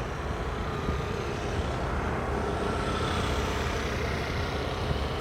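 Steady low engine rumble, with faint steady tones above it.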